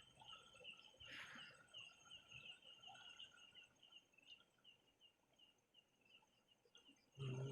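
Faint night-time chorus of small animals chirping: rapid repeated high chirps, several a second, without pause. A short rustle or splash about a second in, and a louder low sound begins just before the end.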